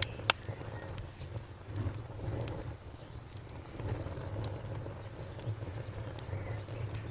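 Wood fire crackling with scattered sharp pops, one loud pop about a third of a second in, over a low steady rumble. A cricket chirps steadily in rapid regular pulses behind it.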